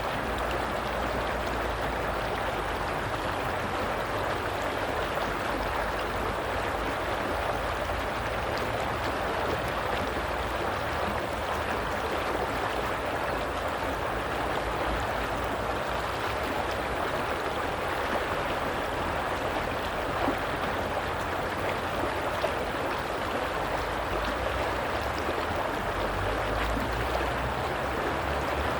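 A stream of running water flowing steadily, an even rush with no change in level.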